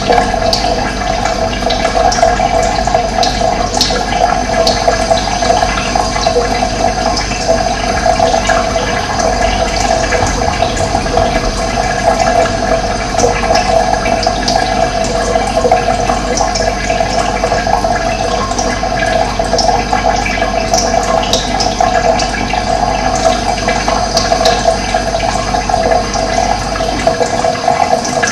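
Steady flow of running water, an even rushing sound with no pauses. A low rumble beneath it drops away near the end.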